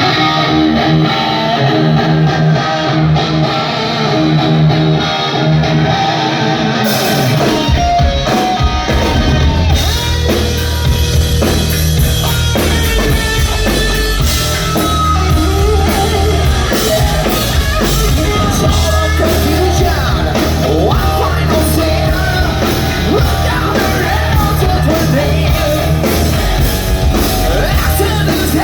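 Hard rock band playing live: an electric guitar plays alone at first, then drums and bass guitar come in about seven seconds in and the full band plays on.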